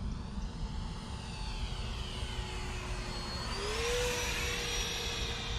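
70mm electric ducted fan of a foam RC jet whining in flight, its pitch stepping up about three and a half seconds in as the throttle is opened, over a hiss that sweeps up and down as the plane moves past.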